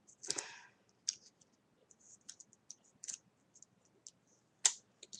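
Light clicking and rustling of paper being handled on a tabletop. There is a short rustle about half a second in and a sharp click near the end.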